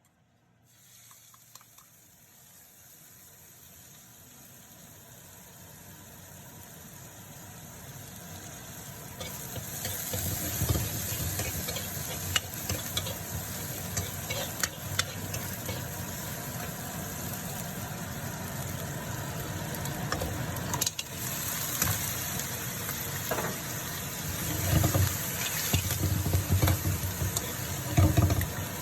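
Food sizzling in a hot pan as it is stir-fried, the sizzle building steadily over the first ten seconds and then holding. Sharp knocks and scrapes of a spatula against the pan come through it, with a few heavier low thuds near the end.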